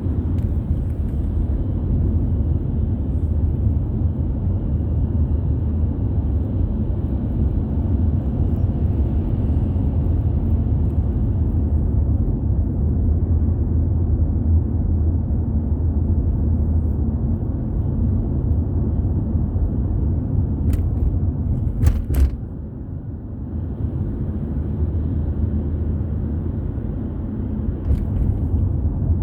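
Car being driven on a road: a steady low rumble of engine and road noise. There are a few sharp knocks about two-thirds of the way through, and the loudest is followed by a brief dip in the rumble.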